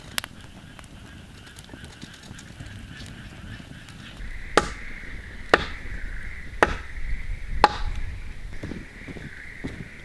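Four sharp chopping strikes about a second apart, a blade biting into wood, with a steady high hum behind them.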